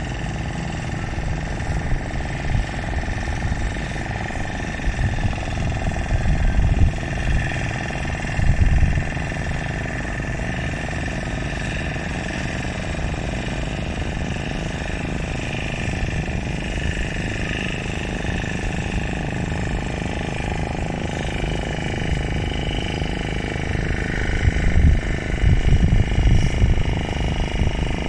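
An engine running steadily under a continuous low rumble, swelling louder twice, around a quarter of the way in and again near the end.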